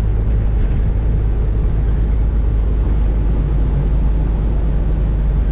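Steady low drone inside the cab of a Freightliner FLD120 semi cruising on the highway: the Caterpillar 3406E inline-six diesel running steadily under road noise.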